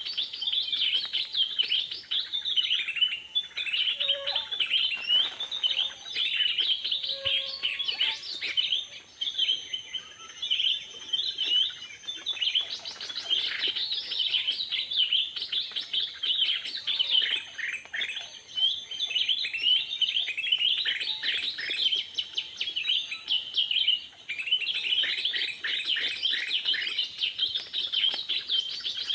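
A dense, unbroken chorus of small birds chirping rapidly, many short calls overlapping.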